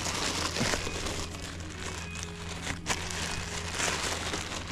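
Crinkling, crackling handling noise with a few sharp ticks, over a steady low hum.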